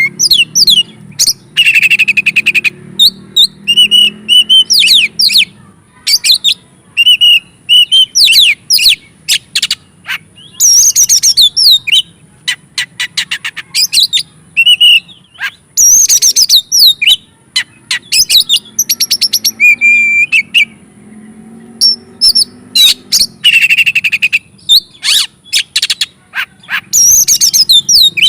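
Oriental magpie-robin singing its full, varied song: quick phrases of high whistles, trills and sharp clicking and rasping notes, one after another with short pauses between them.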